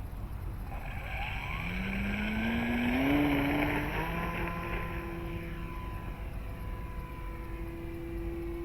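Dynam Super Cub RC airplane's electric motor and propeller throttling up for takeoff: a whine that rises in pitch over the first few seconds, then runs at a steady pitch. It is loudest about three seconds in and eases a little after.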